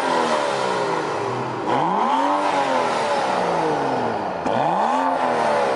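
BMW F30 335i's turbocharged inline-six with its mid muffler deleted, revving up and falling back three times, loud.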